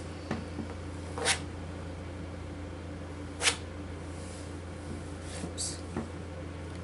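Two short, sharp clicks about two seconds apart over a steady low hum, with a faint brief rustle near the end.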